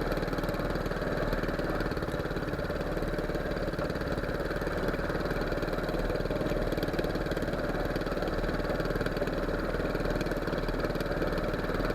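A small boat's engine running steadily at a constant speed.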